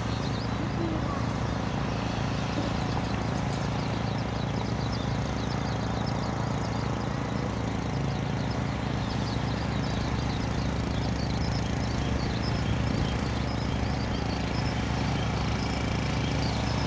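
Tractor engine running steadily while it tills a rice paddy, an even drone with no change in speed.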